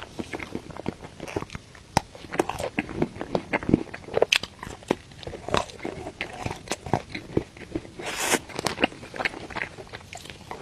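Close-miked eating of desserts: bites and chewing that come as a dense run of irregular sharp mouth clicks. About eight seconds in there is a longer, brighter rustling crunch.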